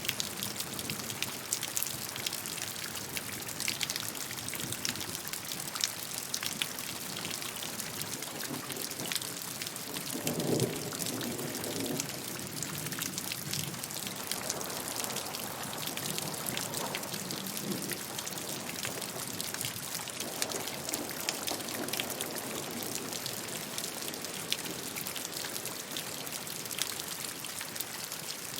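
Steady rain falling, a dense patter of drops striking a surface. A low rumble swells in about ten seconds in and comes back more faintly a few times later.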